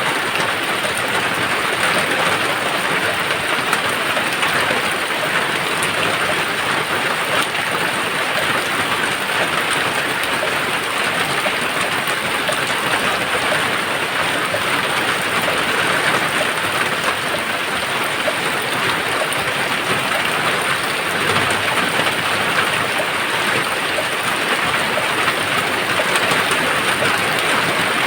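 Steady rain falling, a dense, even hiss with no break.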